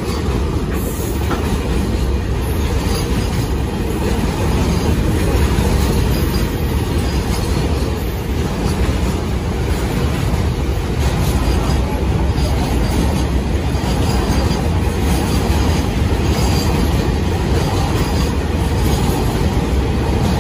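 MEMU electric multiple-unit passenger train running along the track: a steady rumble of wheels on the rails at an even loudness.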